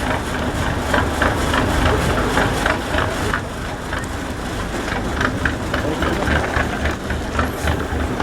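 IFA W50 truck's diesel engine running steadily at low revs, a deep rumble.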